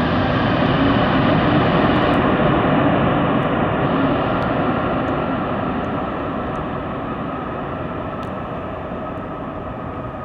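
Jet engine noise from a landing Boeing 787-8 Dreamliner, a steady rush with faint whining tones. It is loudest about two seconds in, then slowly fades as the aircraft moves away.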